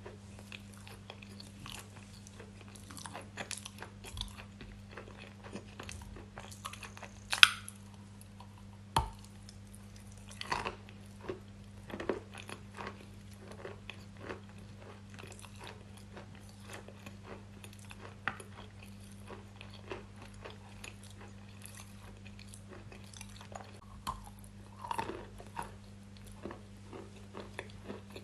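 Close-miked chewing and biting of crunchy food, with irregular crisp crunches; the loudest sharp crunch comes about seven seconds in. A steady low electrical hum runs underneath.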